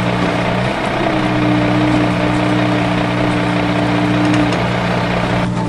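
Truck engine idling, a steady low hum with a higher tone joining about a second in and dropping out about a second before the end. It is laid over toy trucks that have no motors of their own.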